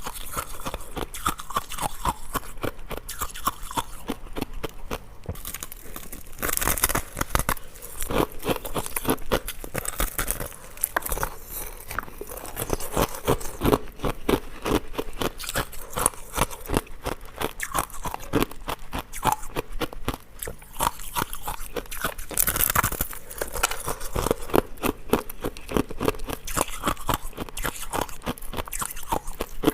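Ice cubes being bitten and chewed close to the microphone: a continuous run of sharp, crackling crunches, with louder bites about 7 seconds and 22 seconds in.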